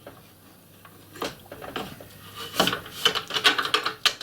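Light clicks and knocks of small parts being handled: a bolt with spacers being fitted to a table saw's blade guard. A few scattered taps at first, then a denser run of clicks in the second half.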